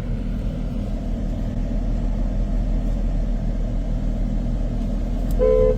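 Steady low rumble of a car heard from inside the cabin, then a short car horn blast near the end, sounded to move seagulls out of the car's way.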